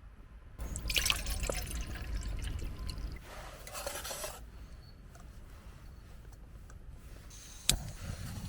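Water being poured into a container in two pours, then a single sharp click near the end, followed by a low steady rumble.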